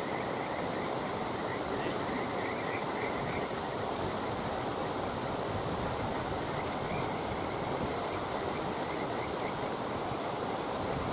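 Wood campfire burning with a steady rushing, hissing noise under it, and a faint high chirp repeating about every two seconds.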